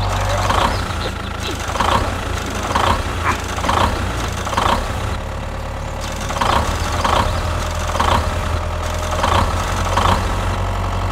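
Mini tractor engine running steadily, with a short clatter repeating about every two-thirds of a second.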